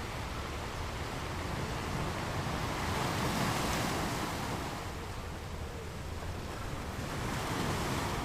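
Waterfall: a steady rush of falling water that swells louder twice.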